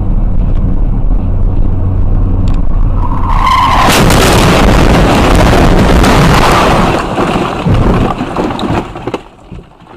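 Car running with a steady low drone, then a brief squeal about three seconds in, followed by several seconds of loud harsh skidding and crash noise that dies away near the end.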